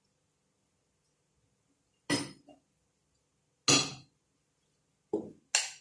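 A metal utensil knocking against a cooking pot: four short clinks spread through the second half, the second one the loudest.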